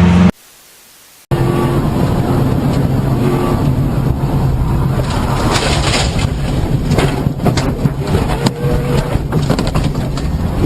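A car engine running with a steady low drone and a rough, noisy edge. It breaks off abruptly about a third of a second in, leaves a faint hiss for about a second, then comes back. From about halfway on, crackly clicks are scattered over it.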